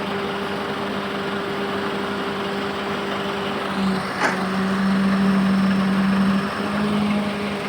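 Heavy vehicle's diesel engine running steadily. A sharp click about halfway through, after which the engine note grows louder for a couple of seconds.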